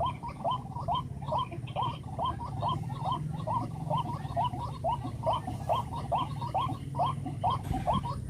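White-breasted waterhen calling: a fast, unbroken series of short rising notes, about three to four a second, over a low steady hum.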